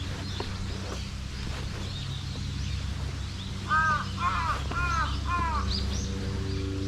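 A crow cawing four times in quick succession about halfway through, over a steady low rumble, with small birds chirping faintly.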